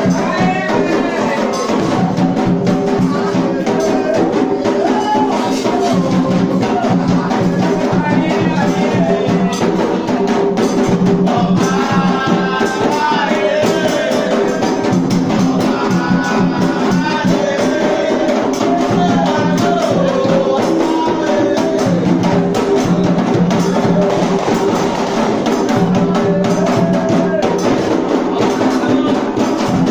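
Voices singing an Afro-Brazilian religious chant over steady hand-drumming and rattling percussion.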